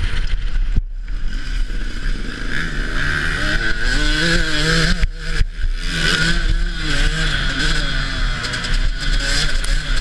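Dirt bike engine revving, its pitch rising and falling several times, under a steady noisy rush.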